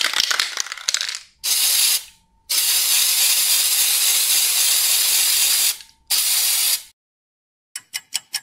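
Aerosol spray paint can: a second of rapid clicking, then three hisses of spray. The first hiss is short, the second lasts about three seconds and the third is short again. A few quick clicks follow near the end.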